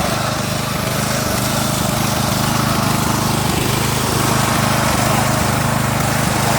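Lawn tractor engine running steadily while the tractor is driven, geared up with a larger front drive pulley to go faster.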